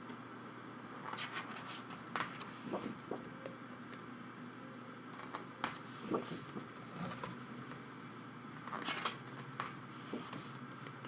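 Pages of a thick photobook being turned by hand: a series of short paper rustles and soft flaps, scattered irregularly, over a faint steady hiss.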